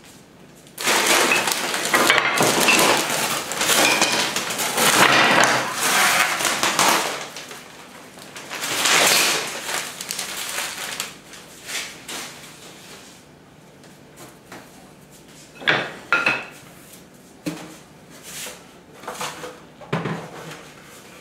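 Unpacking a wooden beehive kit: long stretches of scraping and rustling as parts and packaging are handled, then a few sharp knocks of wooden parts being set down.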